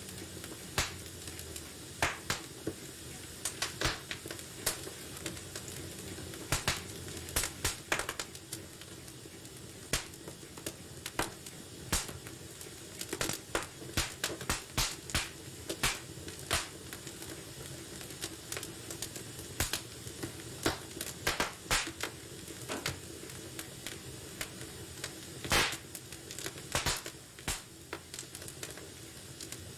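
Wood fire burning in a fireplace: a steady low hiss of flames with irregular sharp crackles and pops from the burning logs, several a second.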